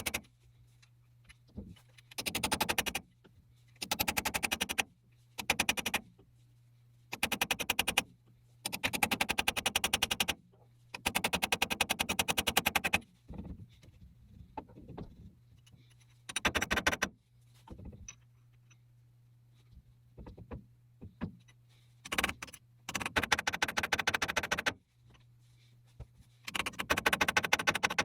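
Rapid mechanical rattling in about a dozen short bursts of uneven length, stopping and starting, over a steady low hum.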